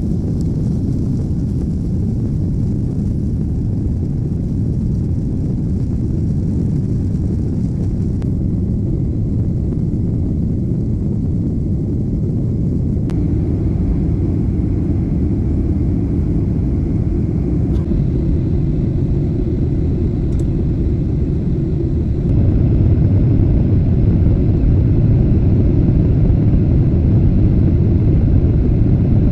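Steady low rumble of a moving vehicle, getting a little louder about three quarters of the way through.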